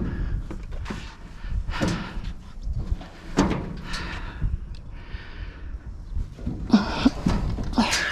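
Hard objects being shifted and set down: about six separate knocks and clunks, with a short scrape about five seconds in.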